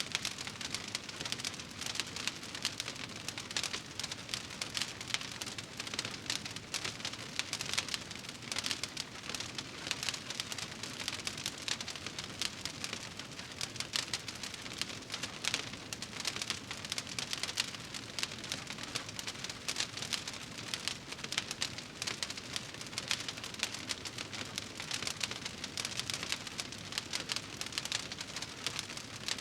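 Wood fire crackling in a fireplace: a steady, dense stream of small pops and snaps.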